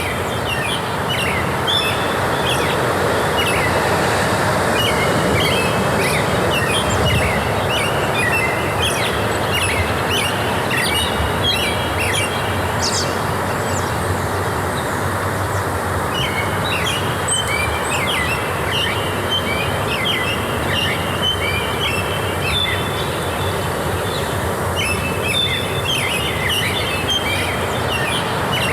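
A chorus of small songbirds chirping busily in rapid short notes, thinning out briefly about halfway through, over a steady rushing background noise.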